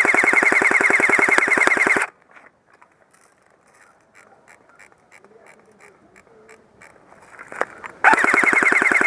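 G4-A1 airsoft rifle firing on full auto: a long, rapid burst that stops about two seconds in, then faint ticking, then another long burst starting about eight seconds in.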